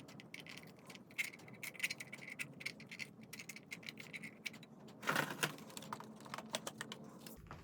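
Faint, irregular light plastic clicks and taps as a small 3D-printed driver figure and an RC crawler's body shell are handled and repositioned, with a denser run of clicks about five seconds in.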